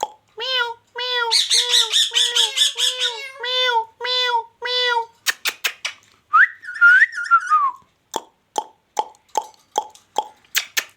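Ringneck parrot giving a run of short repeated calls, then a whistle that rises and falls. Near the end there is a series of sharp clicks, about two a second.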